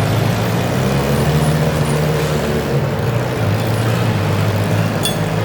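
Garden tractor engine running steadily, its pitch dropping a little about three and a half seconds in.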